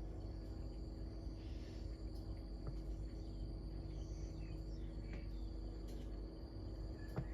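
Outdoor ambience of insects trilling steadily at a high pitch, with a few brief bird chirps and a single sharp click near the end.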